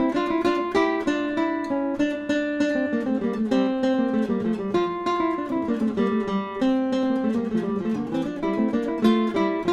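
Background music: a solo plucked string instrument playing a quick melody of single notes, several a second, each ringing on briefly.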